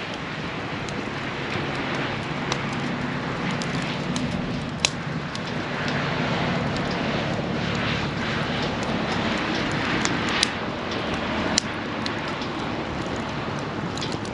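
Wood campfire burning with a steady rush of flame and scattered sharp crackles and pops, three of them standing out. A low steady drone sits underneath through the middle.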